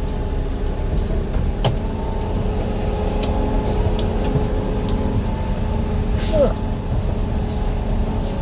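A city bus's engine running steadily, a low drone with a few clicks and rattles, and a short squeak about six seconds in.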